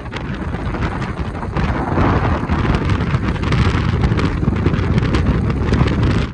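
Strong wind buffeting the microphone: a loud, gusty rumble.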